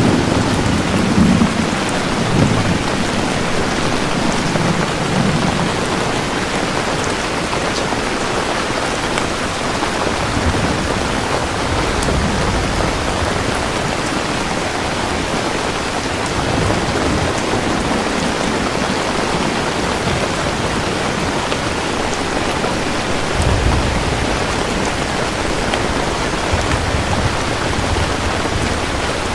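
Steady rain pouring down, with low rumbles of thunder in the first few seconds and again near the end.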